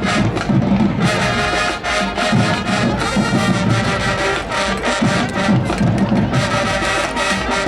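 High school marching band playing a loud tune, with massed brass over a steady drumline beat.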